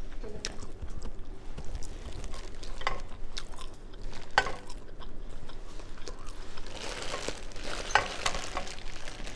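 Close-up mukbang eating: chewing seafood with scattered wet clicks and smacks. Near the end a thin plastic bag crinkles as hands dig through the seafood boil inside it.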